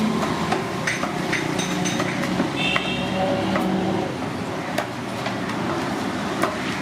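Busy street noise: motor vehicle engines running under a steady hum, with scattered sharp clicks and clinks and a brief high tone about halfway through.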